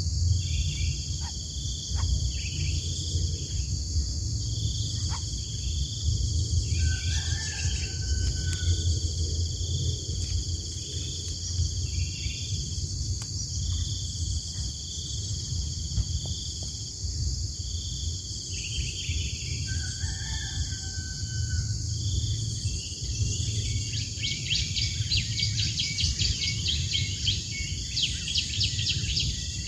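Outdoor ambience: a steady high drone of crickets and other insects with a repeating chirp, a few short bird calls, and a fast buzzy trill near the end, over a low rumble.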